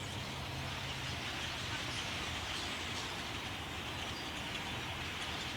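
Steady outdoor din from a large flock of birds streaming past, faint scattered chirps over an even hiss, with a low steady hum underneath.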